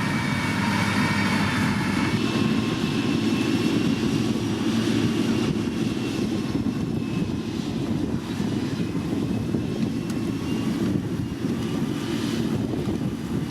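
Diesel engine of heavy road-construction machinery running steadily, with a deep drone. A higher whine over it drops away about two seconds in.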